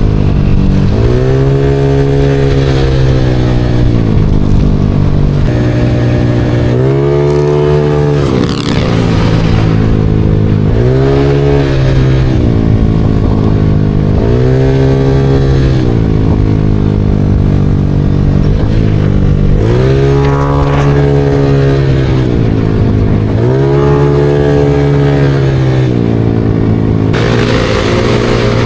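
Honda Click 185cc single-cylinder scooter engine, running loud through a straight-piped G-Racing exhaust with a straight 32 elbow. It is blipped again and again, the pitch rising and falling back about every two seconds, around a dozen revs.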